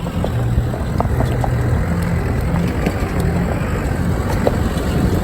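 A 4x4's engine running at low, steady revs while driving slowly over a rough stony track, with scattered small clicks and knocks from stones and the vehicle's body.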